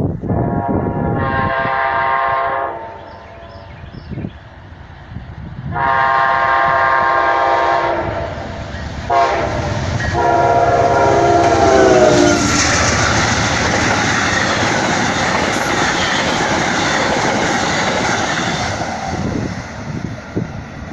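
Amtrak train's multi-chime horn sounding three long blasts, the last one dropping in pitch as the locomotive passes, followed by the loud steady rush and clatter of the train's wheels on the rails as it goes by.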